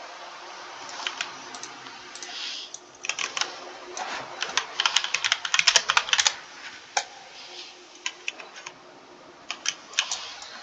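Computer keyboard being typed on: scattered keystrokes, with a fast run of typing in the middle.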